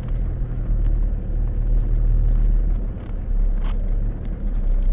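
Four-wheel drive vehicle driving slowly through a sandy, dry riverbed: a steady low engine and tyre rumble, with a few short knocks and rattles.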